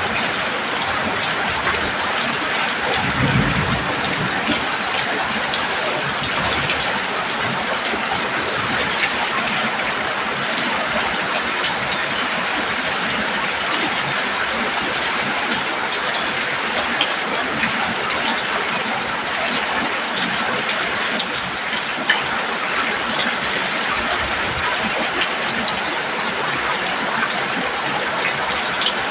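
Heavy rain falling steadily on a roof, a dense, even patter, with a brief low rumble about three seconds in.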